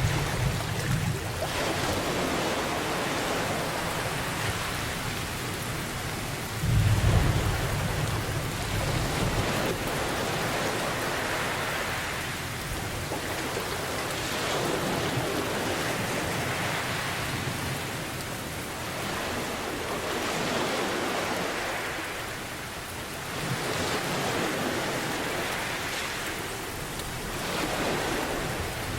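Steady heavy rain, its hiss swelling and easing every few seconds, with a low roll of thunder right at the start and a louder one about seven seconds in that rumbles for a few seconds.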